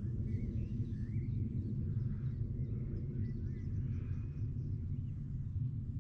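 Faint bird chirps and short whistled calls come at intervals over a steady low rumble of outdoor background noise.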